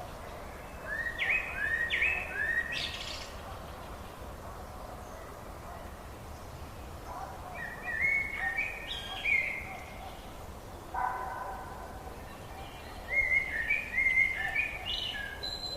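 A songbird singing in three short phrases of quick, upward-sliding whistled notes, separated by pauses of a few seconds, over a steady background hiss.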